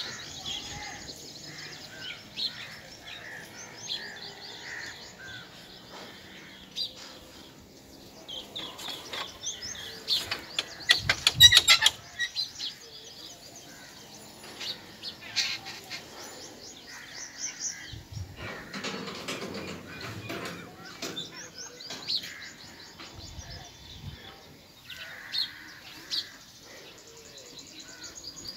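Small birds chirping and calling over and over. About ten to twelve seconds in comes a quick cluster of sharp clicks or knocks, the loudest sound.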